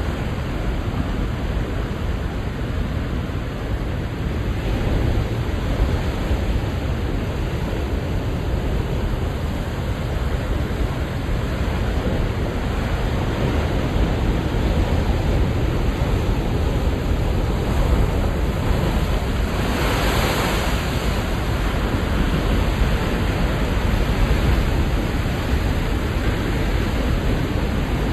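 Ocean surf at high tide on a rocky tide-pool shore: a steady rushing wash of waves, with one wave breaking louder and brighter about twenty seconds in.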